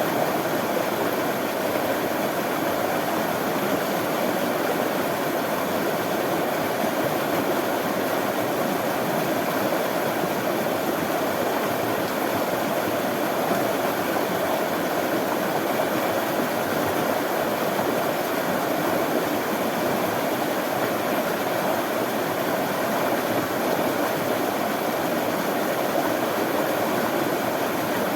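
Running water flowing in a steady, even rush with no breaks or changes.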